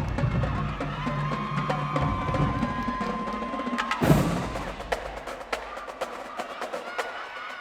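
Marching band playing: a brass note held over bass and drums ends in a loud full-band hit about four seconds in. After the hit the drumline goes on more quietly with sharp clicks and taps.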